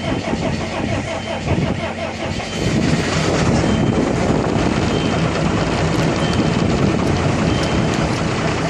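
12-valve Cummins inline-six diesel in a Ford F700 turning over on the starter in a cold start at about 29 °F with no intake heater grid. It catches about three seconds in, gets louder, and keeps running steadily, starting good despite the cold.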